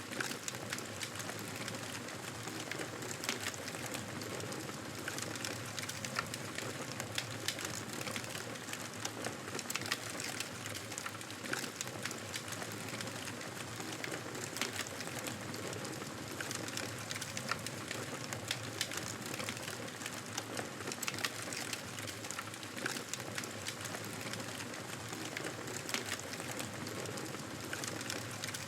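Wood campfire crackling steadily, with frequent sharp pops and snaps over a soft hiss.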